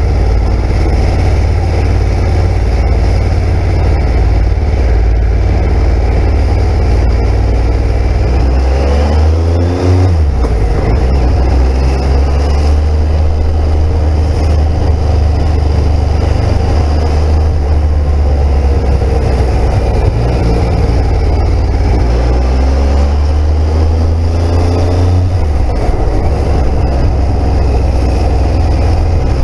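Triumph Speed Triple's three-cylinder engine under way at town speeds over a steady low rumble. The engine note rises as the bike accelerates about eight seconds in, breaks off briefly at a gear change around ten seconds, and rises again a little past twenty seconds.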